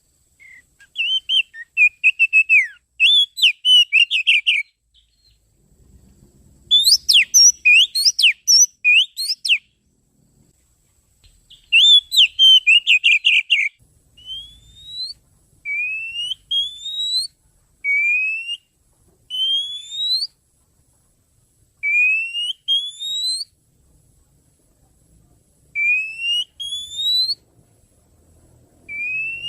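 Oriental magpie-robin (kacer) lure call: three bursts of fast, varied chirping song, then from about halfway on a run of loud rising whistles, one every couple of seconds, sometimes two close together.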